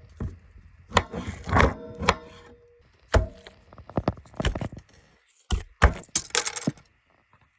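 A rapid, irregular series of knocks and thuds on wood, about a dozen sharp strikes, some with a brief ringing, ending about a second before the end.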